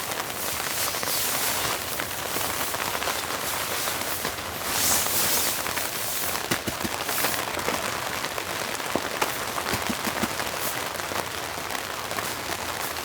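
Steady rain falling, an even hiss with many individual drops ticking sharply, swelling louder for about a second around five seconds in.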